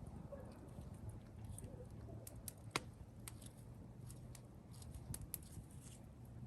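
Campfire wood crackling faintly, with scattered sharp pops, the loudest a little under three seconds in and a few more about five seconds in, over a faint low steady hum.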